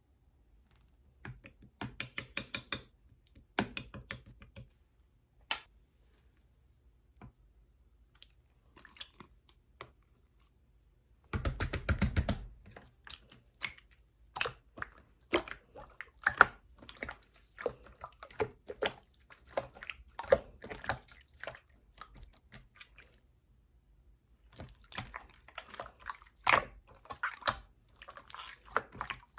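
Clear slime being squished and pressed in the hands, making wet clicking and crackling sounds as air pockets pop. It comes in bursts, with a dense, louder run about twelve seconds in and a long quiet pause before it.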